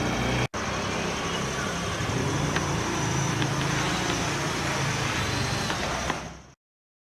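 Small DC electric motors spinning propellers on a homemade model car, running steadily with a whirring hum. The sound drops out briefly about half a second in and cuts off abruptly near the end.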